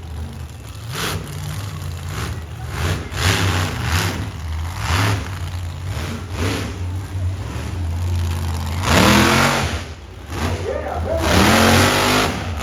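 Monster truck engine running with a steady low drone, revved hard twice near the end, the pitch swinging up and down each time.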